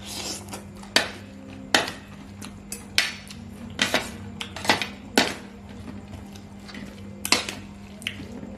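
Eating sounds: about seven sharp, short crunches and clicks, spread unevenly, over a steady low hum.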